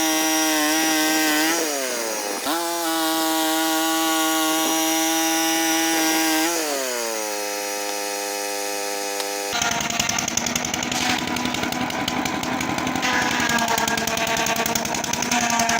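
Small petrol engine of a portable sawmill running fast, its pitch sagging briefly and recovering, then dropping to a lower steady speed. About two-thirds of the way through it gives way abruptly to a rattling machine noise with rapid ticks.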